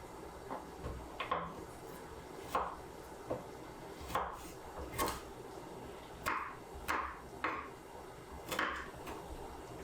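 Kitchen knife chopping on a wooden cutting board, about a dozen uneven strokes with short gaps between them.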